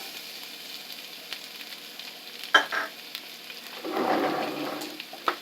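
Hot canola oil sizzling in a pan, with two sharp clicks of a utensil against the pan about two and a half seconds in. About four seconds in the sizzling grows louder as the chopped lemongrass, garlic and ginger go into the oil and are stirred.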